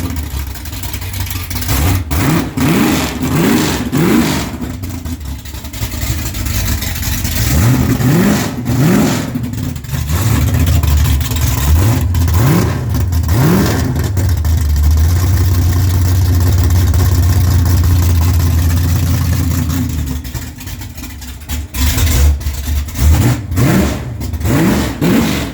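355 cubic-inch small-block Chevy V8 running on open headers with no exhaust, just after a cold start. The throttle is blipped in a series of quick revs, held at raised revs for several seconds past the middle, then blipped again near the end.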